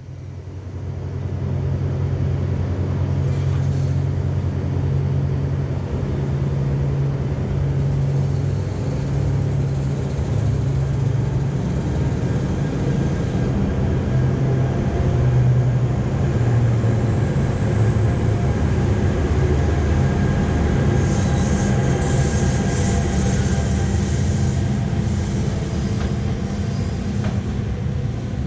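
NJ Transit commuter train of Comet V coaches, pushed by an ALP-45DP dual-mode locomotive, passing close by: a steady low hum and rumble of wheels on rail. A brighter, higher hiss of wheel noise comes in for a few seconds about three quarters through, and the sound eases slightly as the train pulls away near the end.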